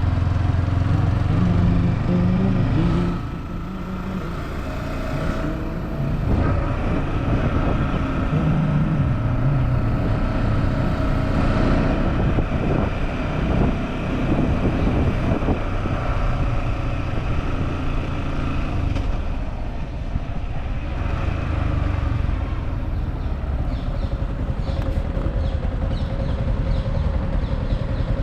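Yamaha R15 V4's single-cylinder engine running while riding through city traffic, with road and wind noise. The engine eases off about three seconds in and picks up again a few seconds later.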